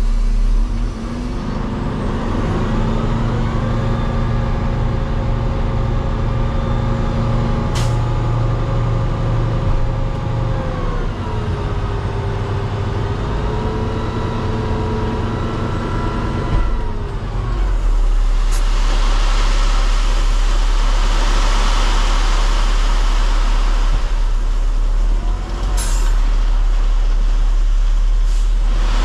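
Heavy dump truck's diesel engine running at a raised, steady speed; it dips and comes back up around the middle, then drops off. A louder, steady rushing noise takes over after that, broken by a few short, sharp air hisses.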